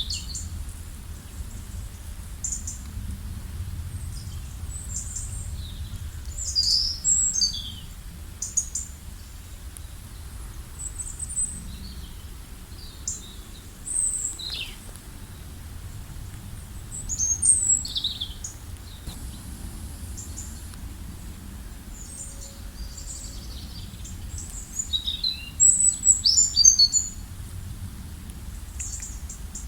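Several songbirds chirping and trilling in bouts of short, high-pitched calls, busiest about a quarter of the way in, around the middle, and near the end, over a steady low background rumble.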